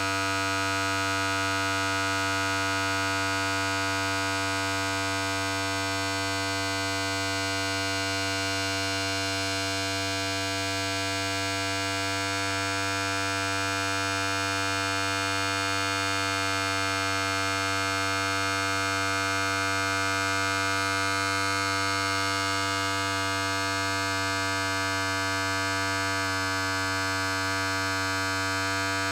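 Electric hair clipper running continuously: a steady, unbroken buzz with no change in speed.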